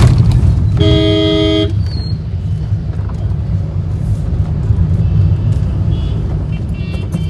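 Steady low rumble of a car driving on a highway at night. A vehicle horn sounds once for about a second, about a second in.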